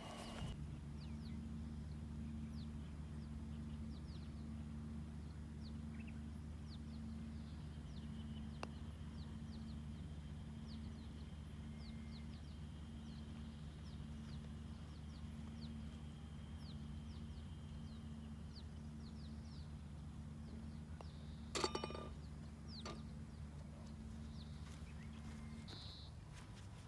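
Small birds chirping in many short calls over a steady low hum. About three-quarters of the way through there is one sharp click with a brief ring.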